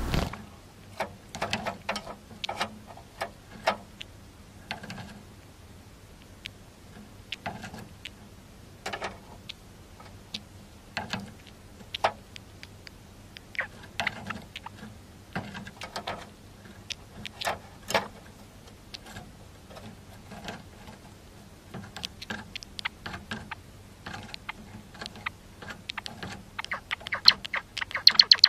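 Java sparrows in a cage making irregular, soft clicks and taps during the male's courtship dance. A faint steady hum lies underneath.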